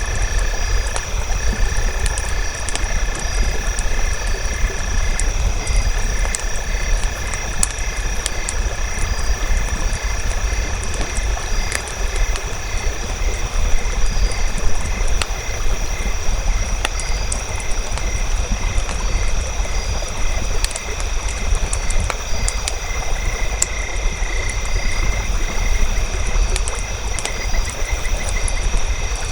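Crackling campfire, sharp pops scattered throughout over a low steady rumble, under a continuous chorus of high chirping trills from calling frogs and insects.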